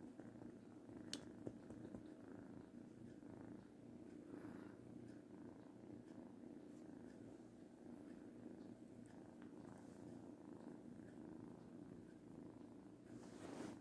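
Kitten purring, a faint, steady purr close to the microphone.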